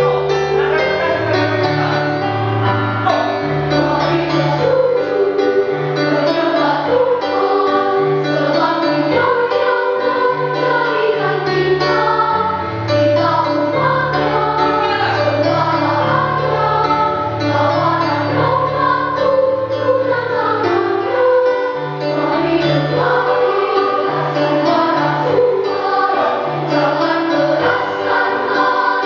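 A children's choir singing a song in unison over a keyboard accompaniment with a steady bass line.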